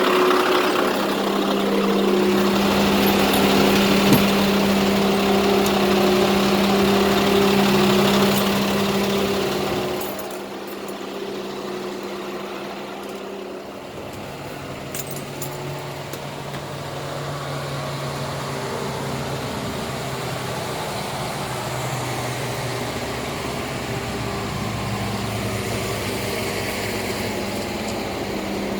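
Scania R500 tractor unit's V8 diesel engine idling steadily. About ten seconds in it gets quieter and settles to a lower steady hum.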